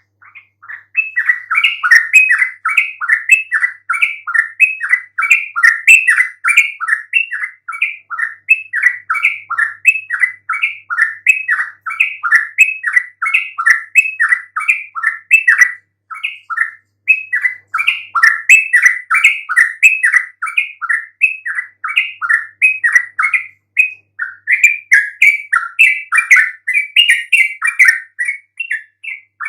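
Yellow-vented bulbul (trucukan) singing a loud, continuous, fast chattering song of several quick notes a second, with short breaks about halfway through and again later.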